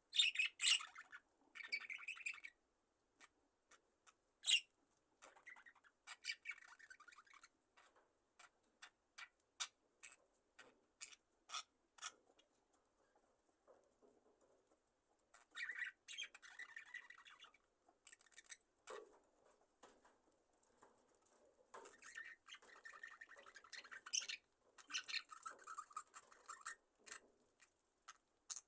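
A flock of budgerigars chirping and chattering softly in short bouts, with scattered small clicks in between, as the birds settle down for the night.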